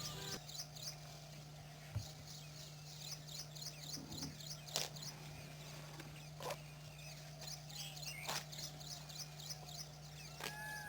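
Small birds chirping in quick runs of repeated high notes, with a few sharp clicks and a steady low hum.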